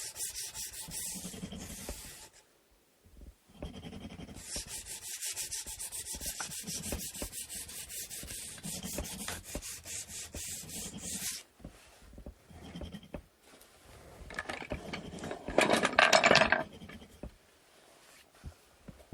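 Sandpaper rubbing back and forth on a wooden inkle loom part, in runs of quick even strokes with a short pause between them. Near the end it eases off, and then comes a brief louder burst of noise.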